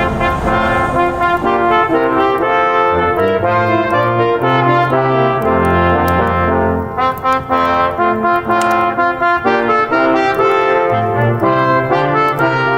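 Brass ensemble music: held chords over a bass line that steps from note to note.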